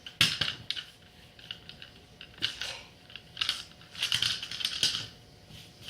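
Irregular clicks and clattering rattles of small hard objects being handled, in several short clusters.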